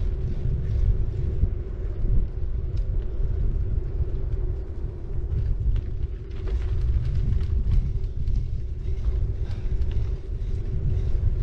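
Bicycle in motion heard from a camera riding on the bike: tyres rolling over the road with scattered small clicks and ticks, a steady hum, and a low rumble of wind on the microphone.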